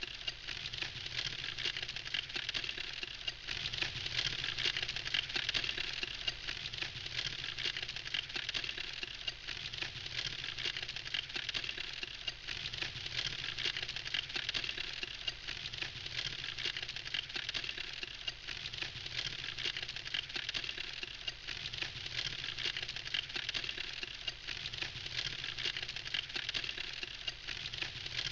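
Campfire burning with a dense, steady crackle of many small snaps and pops.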